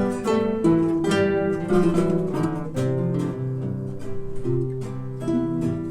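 Guitar ensemble playing a song arrangement: several acoustic guitars plucking melody, bass notes and chords together.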